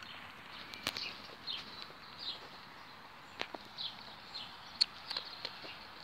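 Small birds chirping: short high calls that slide downward, repeated every second or so, with a few sharp clicks of footsteps along the walk.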